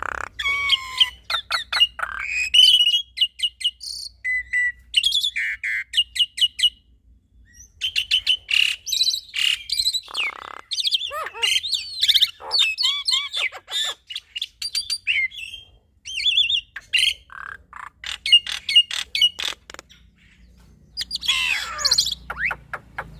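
A black-winged myna and a Javan myna singing together. It is a varied, chattering song of whistles and rapid clicking notes, full of borrowed phrases (isian), coming in bursts with short pauses between them.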